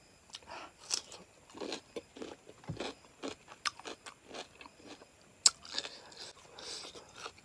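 A person chewing a mouthful of rice and chicken curry eaten by hand, with wet mouth smacks and crunches scattered irregularly throughout. The sharpest smack comes about five and a half seconds in.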